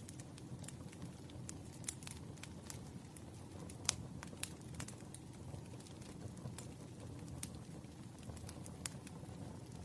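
Burning firewood crackling over a low steady rumble of the fire, with irregular pops and one louder snap about four seconds in.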